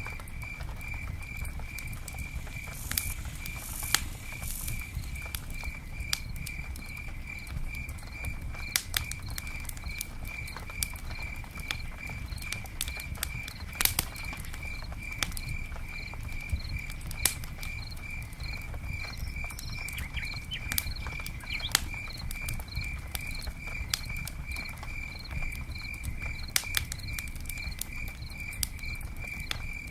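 Campfire and rain ambience: irregular sharp crackles and pops over a soft low rumble and patter, with a steady high chirp, like a cricket, repeating about twice a second.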